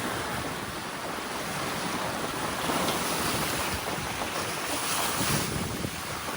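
Wind buffeting the microphone over a steady rush of sea water and waves around a sailboat under way.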